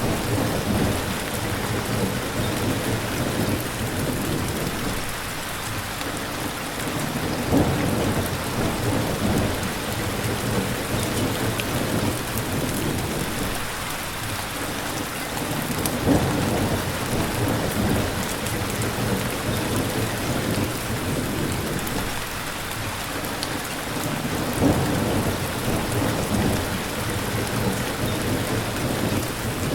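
Steady rain, with low rumbles of thunder swelling three times, roughly every eight seconds.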